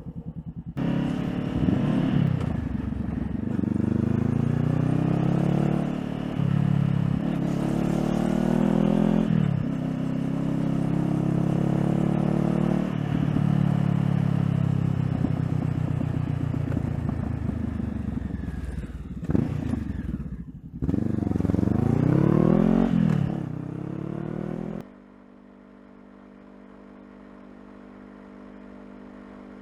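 2016 Honda CBR500R's parallel-twin engine accelerating, its pitch climbing and dropping back several times as it shifts up through the gears. Near the end the sound cuts suddenly to a much quieter steady hum.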